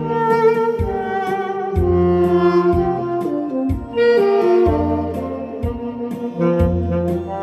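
Saxophone playing a slow trot melody over a backing track with bass and a steady drum beat.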